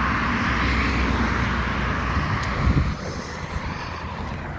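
A vehicle passing on the road, a steady rushing noise with low rumble that fades away about three seconds in.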